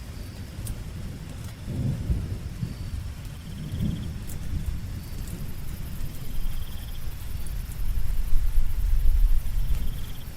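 Steady rain with low, rolling thunder that swells twice in the first half and loudest near the end. Faint high insect trills come every few seconds over the patter.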